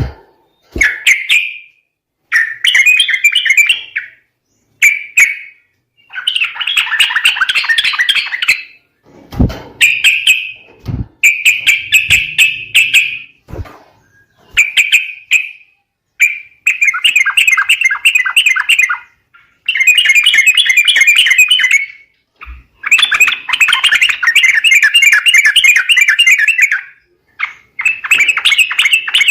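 Yellow-vented bulbul (trucuk) calls used as a lure: loud bursts of rapid, bubbling chatter, each lasting one to a few seconds, repeated with short gaps. A few soft low thumps fall about a third of the way in.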